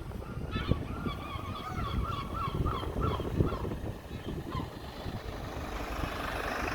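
A gull calling a rapid run of short, repeated notes that trail off after about four seconds, over low wind rumble on the microphone.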